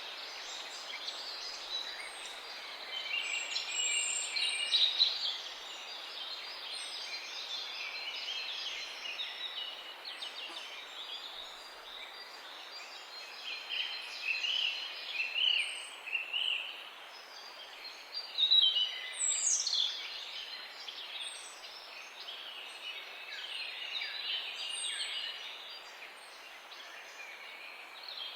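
Several birds chirping and trilling together over a steady background hiss, with louder bursts of song now and then and a few sharp downward-sweeping calls.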